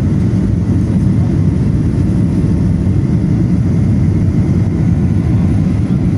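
Steady drone of an airliner's engines and airflow heard from inside the passenger cabin during flight, a deep even rumble with no changes.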